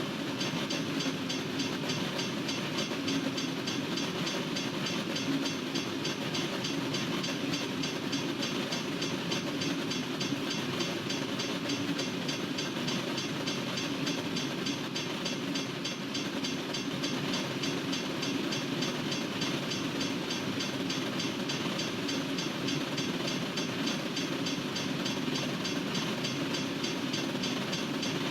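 Freight train cars rolling steadily past a railroad crossing, a continuous rumble of wheels on rail.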